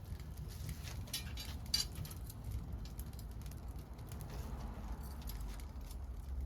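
Wood fire crackling, with scattered small pops over a steady low rumble of the flames; a sharper pop comes a little under two seconds in.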